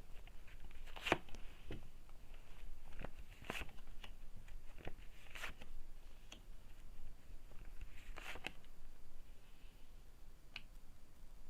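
A large tarot deck being shuffled and handled by hand: irregular soft snaps and flicks of cards, about one every second or two, some with a short papery swish.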